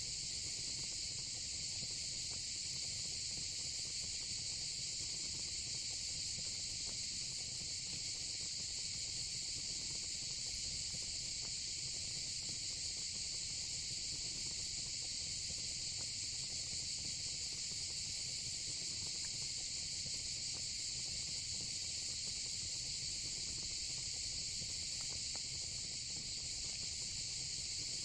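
Steady, high-pitched chorus of insects such as crickets, continuous and unchanging.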